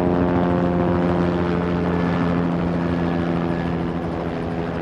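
Helicopter-style engine drone: a steady pitched hum with several overtones that starts abruptly and eases off slightly.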